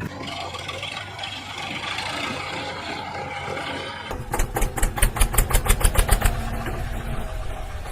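Tractor diesel engine running, with a loud run of rapid, even chugs for about two seconds past halfway before it settles back to a steady run.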